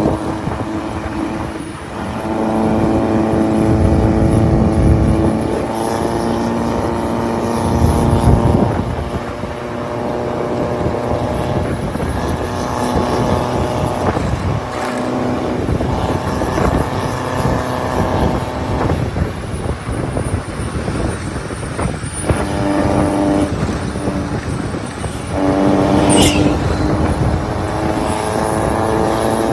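Diesel vehicle engine running hard under load on a mountain road, holding a steady pitch for a few seconds at a time, with breaks and pitch shifts between stretches like gear changes.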